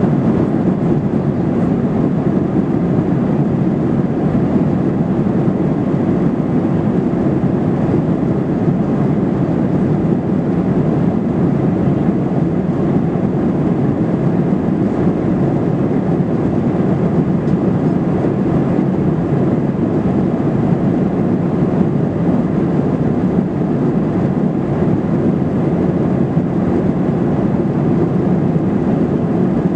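Steady cabin noise of an airliner in flight: an unbroken low rushing of engines and airflow heard from inside the cabin.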